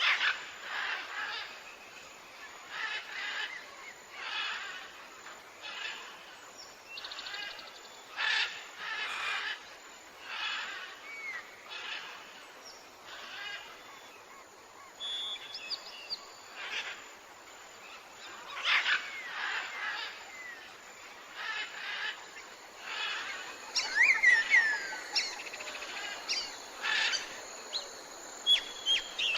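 Wild birds calling outdoors: a string of short, repeated calls roughly once a second, with a louder run of quick chirps about three quarters of the way through.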